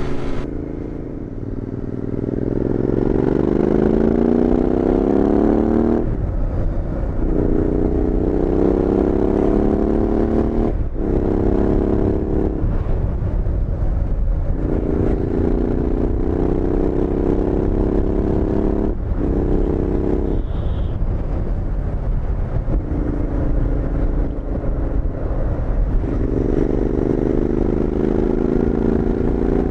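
Royal Enfield Interceptor 650's parallel-twin engine heard through Powerage Performance slip-on exhausts while riding. The exhaust note climbs in pitch as the bike pulls away over the first few seconds, then runs in steady pulls that break off briefly about five times.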